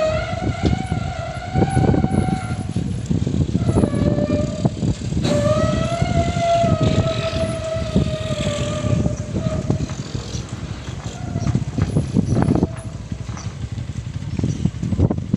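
Amphibious backhoe excavator working: heavy engine running under load, with a high whining tone that swells and fades four times, over a low rumble and repeated clanks and knocks.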